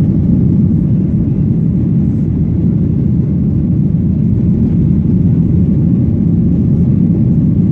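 Steady low rumble inside the cabin of a Boeing 737-800 with its CFM56 jet engines running, heard from a window seat. It holds even throughout, with no rise or sudden event.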